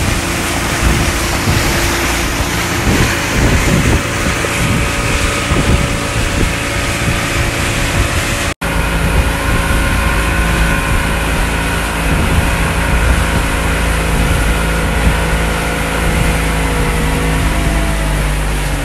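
Small boat's engine running steadily under way, with a rush of wind and water over it. The sound breaks off for an instant about eight and a half seconds in, and the engine note shifts slightly near the end.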